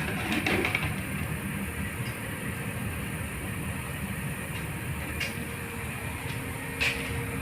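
An electric drill driving a PCP air-rifle hand pump through a homemade drive mechanism, running steadily with a low rumble and a faint hum. A few short clicks come through, one near the start and one near the end.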